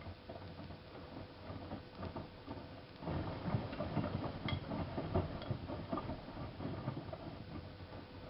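Miele Softtronic W3657 front-loading washing machine in its wash phase: the drum tumbling wet laundry with irregular soft knocks and patter over a faint steady hum. The tumbling gets louder and busier about three seconds in.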